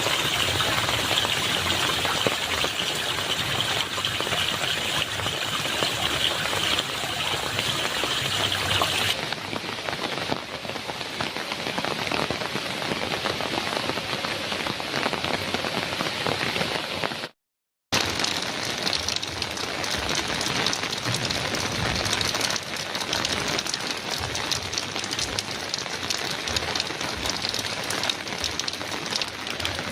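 Heavy rain pattering steadily on a metal roof as a dense hiss. About a third of the way in the sound turns a little duller. A little past halfway it cuts out completely for a moment, then the rain comes back.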